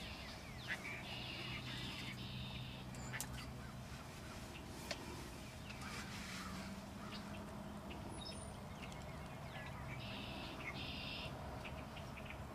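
Wild birds calling, with a few short runs of harsh, noisy calls, over a low steady background hum.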